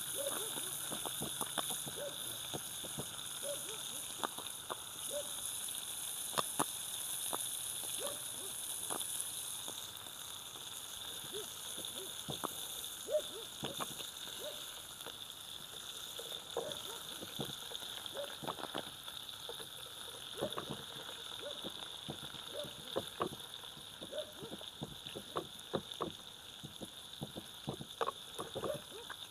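Wood cooking fire crackling, with scattered irregular pops over a steady high-pitched hum in the background.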